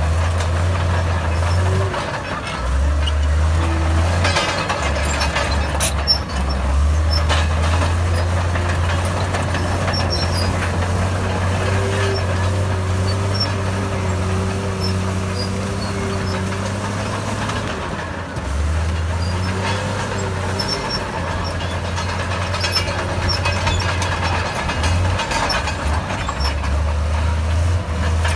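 Heavy diesel earthmoving machinery working: a loud, low engine drone that shifts in pitch a few times as the load changes, with scattered knocks and clanks.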